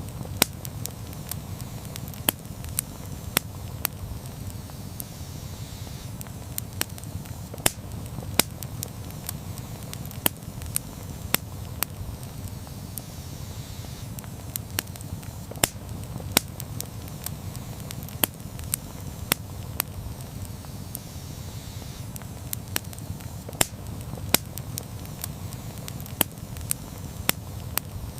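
Wood campfire crackling, with sharp irregular pops about one or two a second over a low, steady rumble of the flames.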